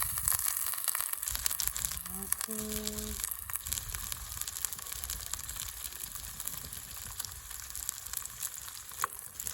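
Marbled sirloin steak sizzling in beef tallow in a hot pan, with a steady, dense crackle of spattering fat.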